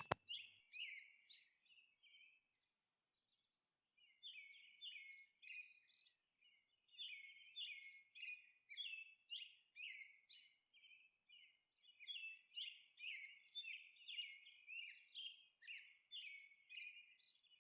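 Faint birdsong: runs of quick, high chirps, with a pause of about two seconds near the start and a shorter one about two-thirds of the way through.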